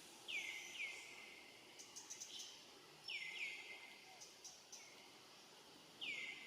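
Short, high chirping calls, each sliding down in pitch: two near the start, two about three seconds in, and one near the end, with a few faint clicks between them.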